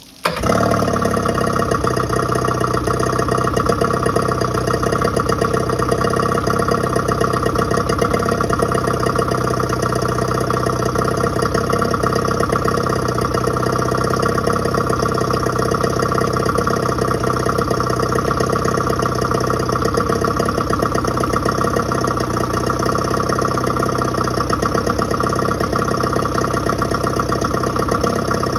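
Yamaha 25 hp two-stroke outboard motor coming in suddenly just after the start, as if catching, then running steadily at idle.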